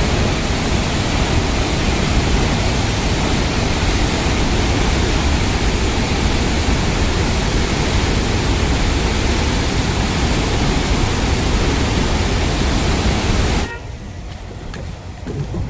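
Loud, steady rush of water pouring through a dam's open spillway gates. Near the end it cuts off suddenly to a much quieter background.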